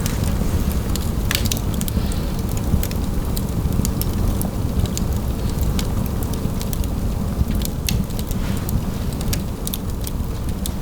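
Log fire crackling in a fireplace: many sharp snaps and pops at irregular moments over a steady low rumble.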